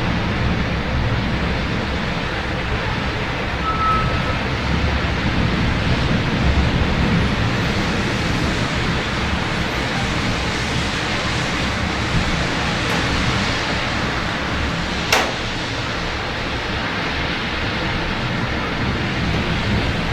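Steady rain hiss over a low hum of city traffic. One sharp click about three-quarters of the way through.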